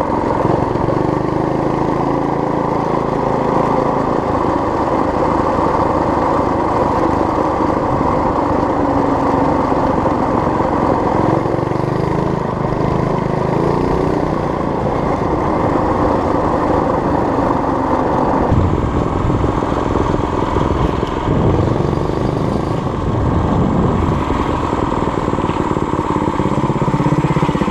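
Small gasoline engine of a homemade mini bike running, its speed shifting up and down several times.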